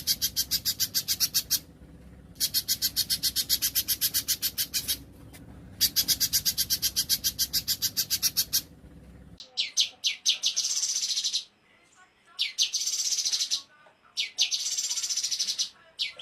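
Small songbirds singing rapid 'tembakan' trills. First come three long bursts of evenly repeated high notes, about ten a second. About nine seconds in, another recording takes over, quieter behind the bird: three phrases, each a few quick separate notes running straight into a dense, buzzing high trill.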